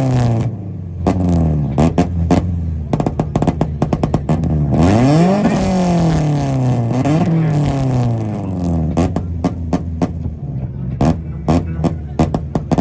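Subaru being revved hard at a two-step / rev battle. The engine pitch climbs and drops several times, and a rapid series of sharp exhaust pops and bangs runs through it, thickest near the end, over the steady low sound of idling engines.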